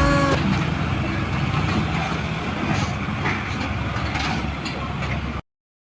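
Mahindra Arjun tractor's diesel engine running steadily, then cutting off suddenly near the end.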